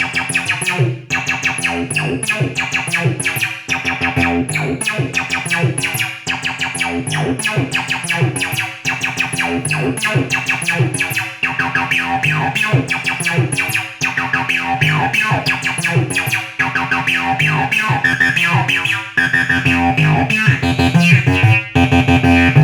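Behringer TD-3 bass synthesizer playing a repeating acid line, with notes that glide in pitch. The pattern cycles with a brief dip about every two and a half seconds.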